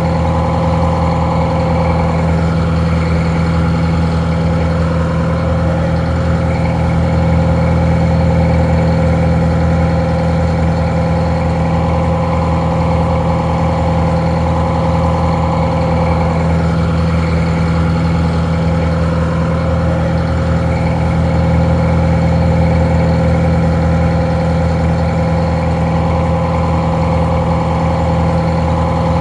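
Detroit Diesel 4-71 two-stroke diesel engine idling steadily, somewhat muffled, with a deep hum and a steady higher tone above it.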